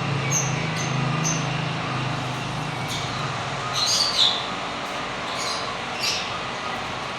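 Lovebirds giving short, sharp high chirps at irregular intervals, with a louder burst of calls about four seconds in. A low steady hum underlies the first few seconds and fades out.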